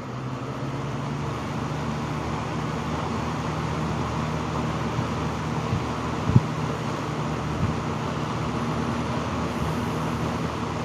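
1970s Lakewood 20-inch box fan speeding up from low to high, its motor hum rising in pitch and loudness over the first second or so, then running steadily with a rush of air. One light knock about six seconds in.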